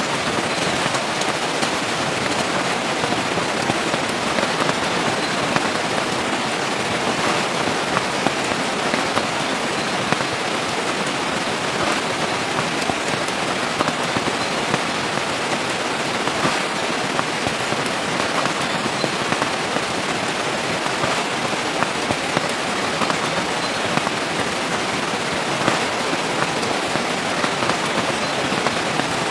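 Steady rain falling, an even hiss of drops with many small sharp taps of drops striking nearby surfaces.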